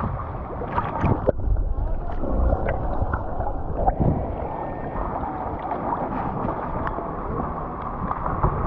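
Wind on the microphone and water sloshing around a small boat, a steady rushing noise with a few small knocks.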